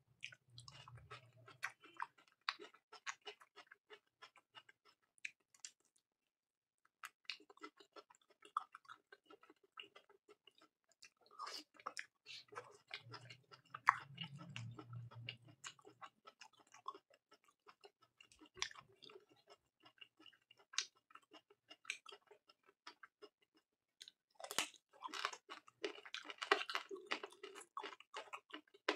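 Close-miked chewing and wet mouth smacks of a person eating curry with fried rice: a steady run of short clicks and smacks, with a brief pause about six seconds in and busier chewing near the end.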